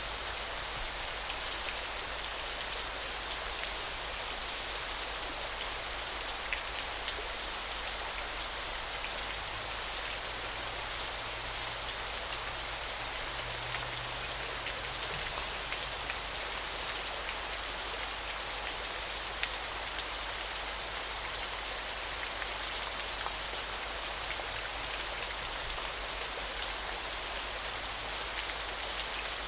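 River water running in a steady, even rush. A high, thin buzzing trill sounds briefly at the start and again, louder, for several seconds in the second half.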